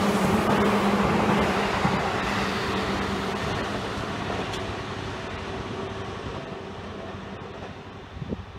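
A Seibu Railway N2000-series electric train moving away along the line. Its steady hum and rolling wheel noise fade gradually as it draws off into the distance, with a brief knock near the end.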